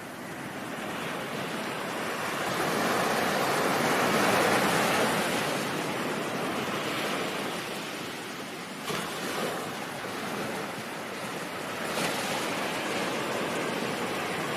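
Ocean surf: a wave swells up over about four seconds and then washes back. Two brief, sharper splashes come later.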